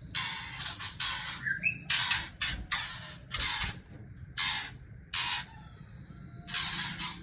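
White-rumped shama nestlings giving raspy, hissing begging calls in short bursts, about eight in a row with uneven gaps.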